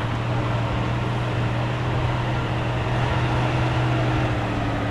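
Heavy off-road truck engine running at steady revs, easing off slightly near the end.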